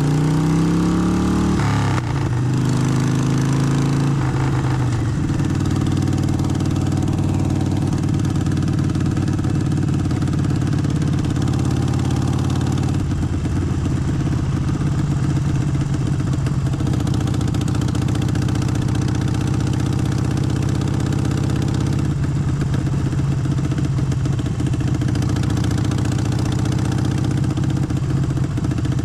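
Harley-Davidson Forty-Eight's air-cooled 1200 cc Evolution V-twin running under load. Its pitch climbs, drops sharply about two seconds in, changes again a couple of seconds later, and then holds steady.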